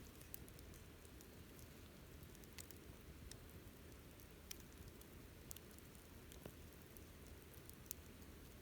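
Campfire crackling faintly: irregular sharp pops and ticks over a soft steady hiss.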